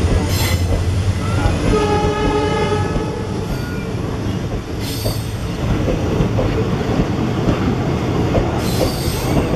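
Passenger train coaches rolling past close by, a steady heavy rumble of wheels on the rails. A horn sounds briefly about two seconds in, and short high wheel squeals come three times.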